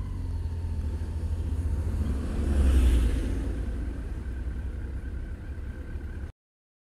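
Low rumble of a motorcycle ride picked up by a bike-mounted action camera, with engine and road noise, swelling about three seconds in, then cutting off abruptly to silence near the end.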